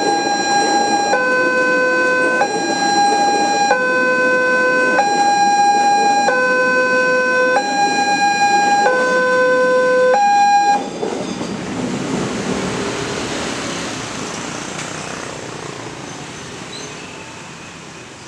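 A railway level-crossing warning alarm sounds, two electronic tones alternating high and low about every 1.2 s, over the rumble of a passing train. The alarm cuts off suddenly about 11 seconds in, and the train noise fades away after it.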